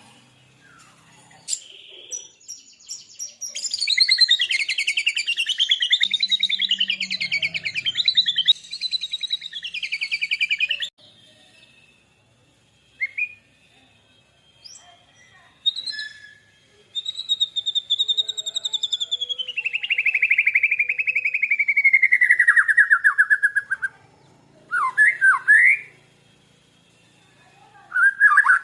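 White-rumped shama (murai batu) and lovebird singing: two long, rapid trills of several seconds each, the second sliding down in pitch, with short rising whistled notes between and after them.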